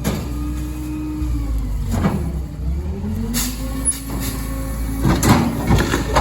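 Kenworth rear-loader garbage truck with a Heil packer body running its hydraulic packer on bulk trash. The engine note drops under load about a second in and climbs back. Sharp cracks come about two seconds in, and a cluster of cracking and banging near the end as debris is crushed.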